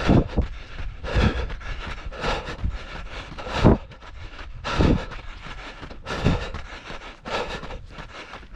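A runner breathing hard while running, with a breath about once a second, over a low rumble.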